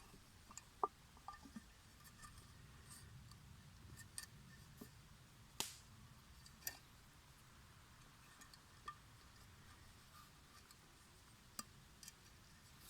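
Faint, irregular scattered clicks and ticks over a low steady hum, near silence otherwise.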